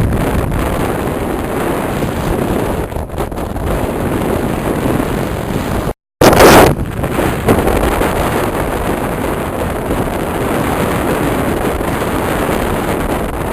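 Wind rushing over the microphone of a moving motorcycle, with road and engine noise underneath. The sound cuts out for a split second about six seconds in and comes back with a short, loud blast of wind.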